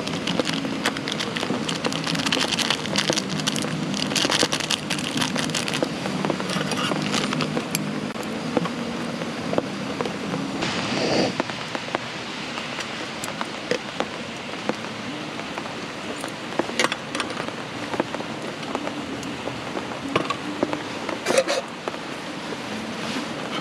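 Steady rain falling and pattering on the ground and the camp gear, with scattered clicks and clinks as a metal cooking pot and pan are handled.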